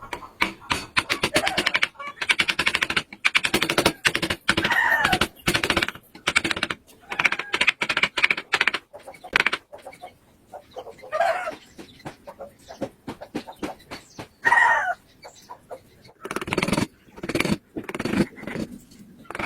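Chickens clucking and calling in short pitched calls, over many quick, sharp taps and knocks.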